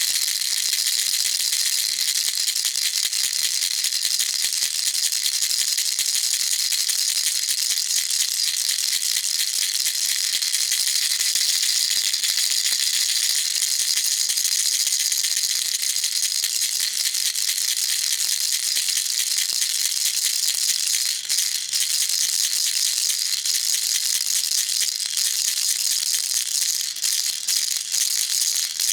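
Baby rattle shaken without pause, a dense, steady, high-pitched rattling of small pellets inside, with a few brief breaks near the end.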